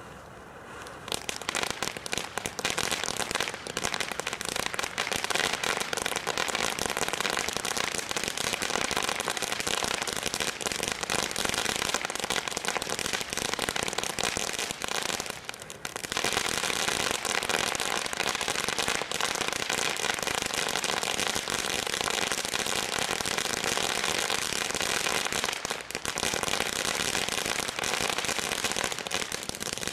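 Firecrackers going off in a dense, unbroken crackle of rapid pops. The crackle starts suddenly about a second in and eases briefly twice.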